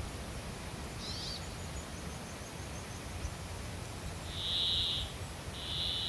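Wild birds calling: a short high chirp about a second in, followed by a faint high trill, then two buzzy notes of about a second each near the end. A steady low rumble runs underneath.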